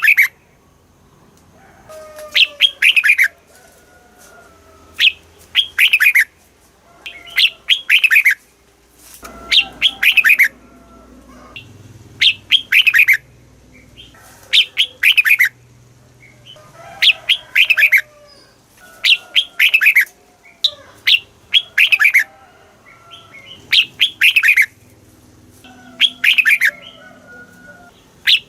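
Red-whiskered bulbul singing, repeating a short phrase of quick falling notes about every two seconds or a little more.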